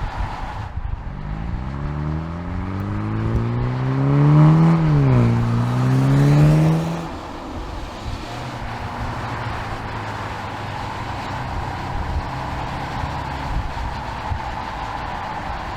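MINI John Cooper Works Clubman's turbocharged four-cylinder engine accelerating hard: the revs climb, fall back at an upshift about five seconds in, and climb again. After about seven seconds the engine sound drops away abruptly, leaving steady background traffic noise.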